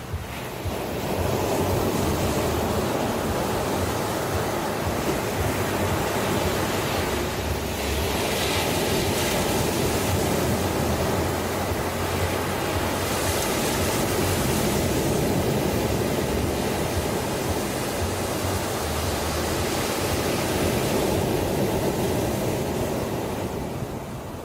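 Ocean surf: a continuous rush of waves breaking and washing up, with a couple of brighter swells a third and halfway through.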